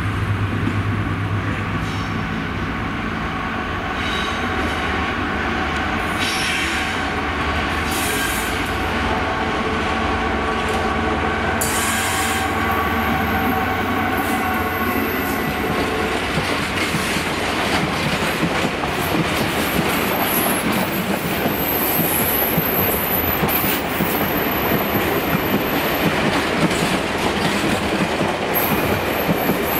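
A Class 66 diesel freight locomotive's two-stroke V12 engine runs with a steady low drone as it approaches and passes. The drone gives way after about fifteen seconds to a train of empty flat wagons rattling and clacking over the rail joints. A thin, high wheel squeal comes in the later half.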